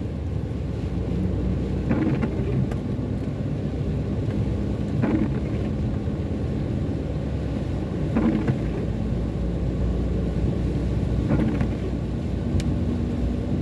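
Steady low road and engine rumble heard from inside a moving car on a wet road, with faint short sounds about every three seconds.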